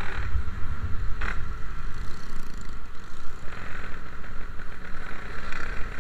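Yamaha RX King's 135cc two-stroke single-cylinder engine running while the motorcycle is ridden, with heavy low rumble from the wind and road. A single sharp click sounds about a second in.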